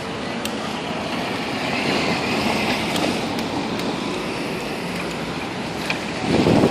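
Street and traffic noise heard from a moving bicycle, with wind rushing over a handheld camera's microphone and a few scattered ticks. A louder low rumble comes near the end.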